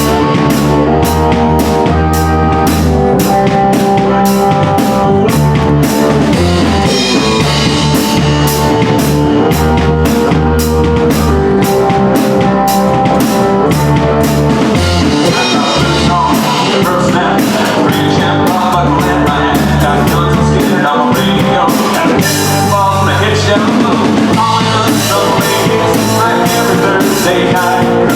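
Live band playing a song, with a drum kit keeping a steady beat under bass and other instruments.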